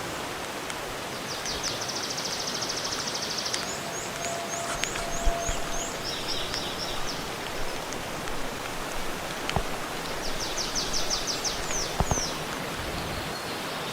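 Small birds singing in rapid high trills and short down-slurred notes, in several bouts, over a steady rush of flowing water. A few sharp clicks or snaps come in between.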